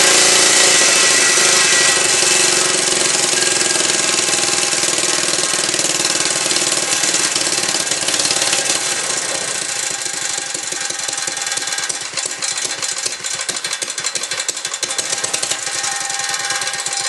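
Antique Ironhorse small gas engine running steadily on its own. From about ten to twelve seconds in it runs slower and rougher, with its separate firing strokes audible.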